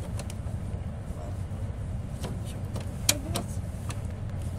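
Steady low rumble inside the passenger car of a Renfe AVE high-speed train, with scattered light clicks and a sharper knock about three seconds in.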